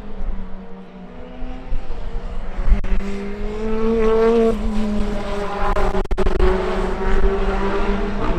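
Toyota Corolla GR Sport touring car engine running hard on track: its note climbs, drops abruptly about halfway through, then holds fairly steady.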